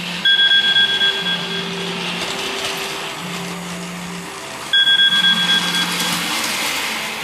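Model railway layout running with a steady hiss and a low hum that cuts in and out every couple of seconds, while a pulsed electronic two-tone signal sounds twice, about four and a half seconds apart.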